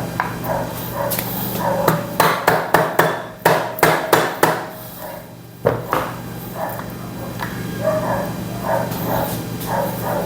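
Hammer tapping a part into place on a motorcycle engine: a quick run of sharp metal taps for a couple of seconds, then one more single tap.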